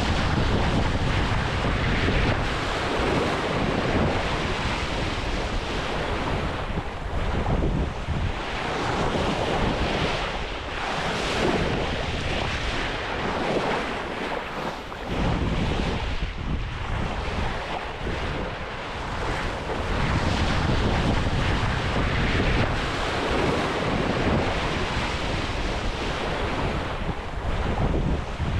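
Wind buffeting the microphone over the steady rush of waves and water around a sailing yacht under way, rising and falling in gusts.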